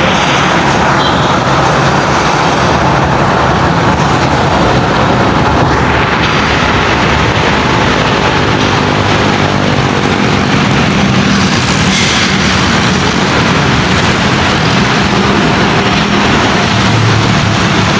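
Heavy road traffic, trucks passing close by: a steady, loud mix of diesel engine and tyre noise, with one vehicle's engine note falling in pitch as it goes past about halfway through.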